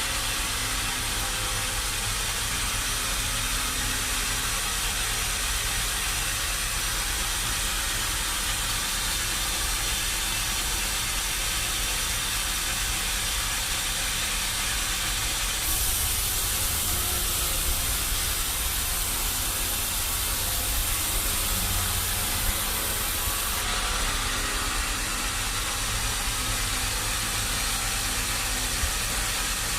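Sawmill machinery running with a steady hiss over a low rumble; about halfway through, the hiss turns brighter and sharper for about eight seconds.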